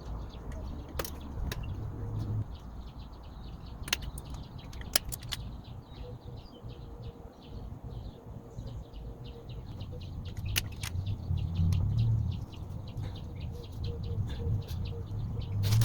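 Outdoor background of birds chirping over a low rumble that swells and fades, with a few sharp clicks scattered through.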